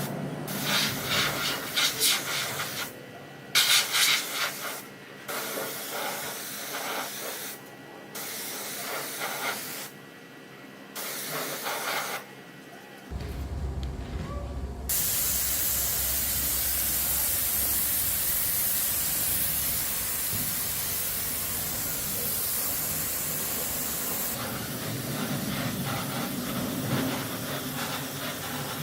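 Short stretches of rubbing and scraping cut together, then a steady spraying hiss from about halfway through that lasts around ten seconds before easing.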